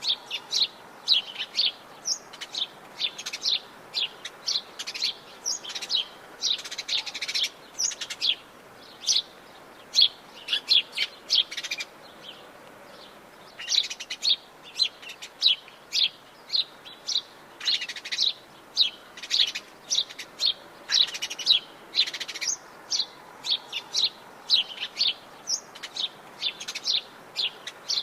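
Wild songbirds chirping in Atlantic Forest, many short rapid chirps overlapping, with a brief lull near the middle, over a faint steady background hiss.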